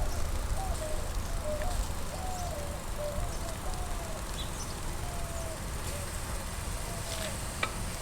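Wind buffeting the microphone and riding noise from a moving bicycle, a steady low rumble. Over it, a quick run of short, wavering squeaky notes about two a second that stops shortly before the end.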